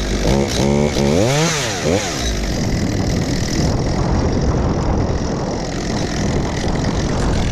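Chainsaw revved up and down in quick throttle blips for about the first two seconds, then a steady rough noise without the rising and falling pitch.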